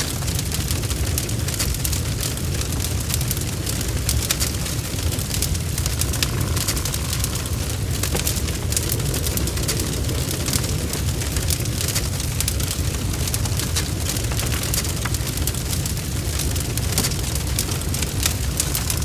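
Wood fire crackling in a fireplace, with many small sharp pops and snaps, mixed with steady rain pattering and a continuous low rumble.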